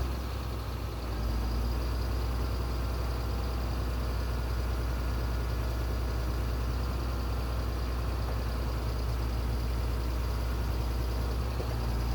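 A heavy engine running steadily with a low, constant drone.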